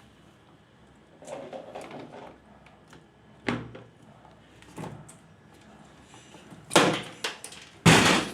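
A series of clunks and knocks from a washing machine's panels or door being handled, about one every second or two, with two louder bangs near the end.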